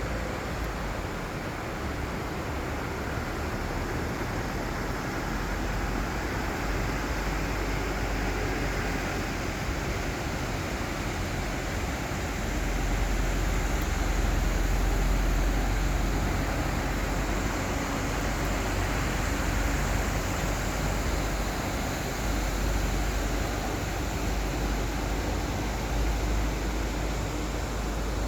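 Steady rushing water of the Chenab River, a constant broad hiss. Low wind rumble on the microphone swells about halfway through.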